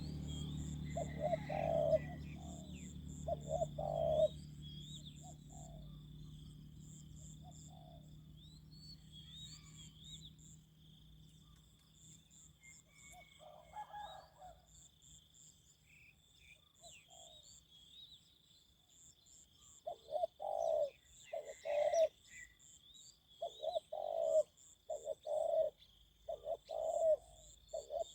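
Spotted doves cooing in short phrases of a few notes: a few at the start, sparse in the middle and coming thick and fast in the last third. A steady high-pitched buzz with pulsing chirps runs beneath, and a low hum fades away over the first several seconds.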